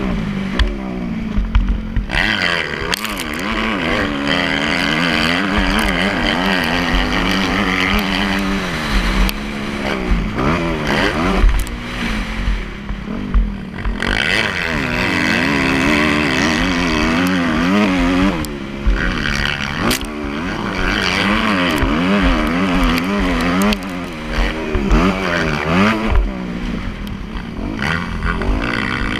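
Motocross motorcycle engine running hard, its pitch rising and falling over and over as the throttle opens and closes.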